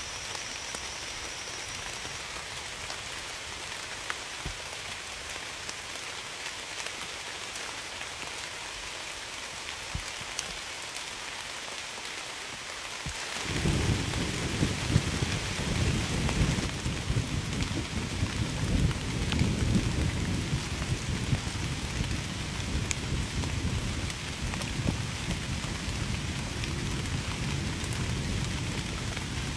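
Steady heavy rain hissing on surfaces, with a long rumble of thunder that breaks in suddenly about halfway through and rolls on, swelling and fading, to the end.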